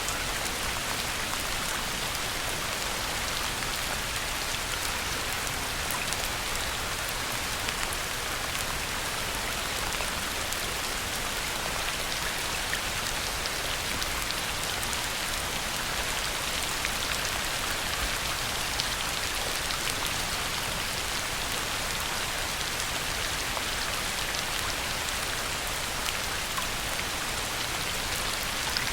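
Heavy rain pouring onto a pond: a steady, dense hiss of drops striking the water, with countless individual drop ticks and no let-up.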